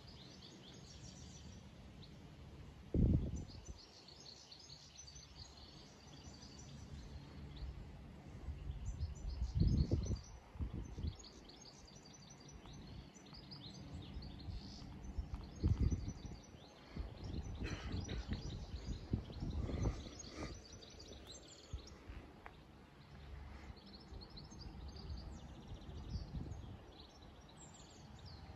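Birds chirping and calling on and off, with several low thumps and rumbles breaking in, the loudest about three seconds in and around ten and sixteen seconds in.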